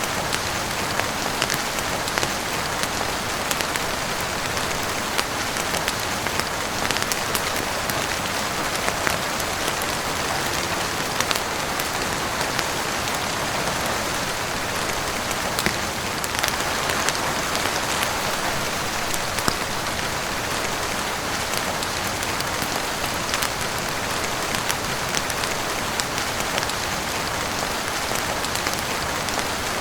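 Steady heavy rain falling on a roof, with many small sharp ticks scattered through it.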